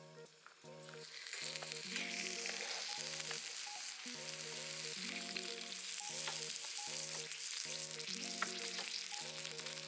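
Steady sizzling hiss that swells up about a second in, under light background music with a stepped melody.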